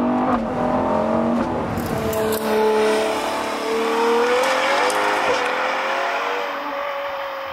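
Ferrari Daytona SP3's 6.5-litre V12 accelerating, its note climbing and dropping back at two quick upshifts in the first second and a half, then holding a steady pitch that slowly fades as the car pulls away.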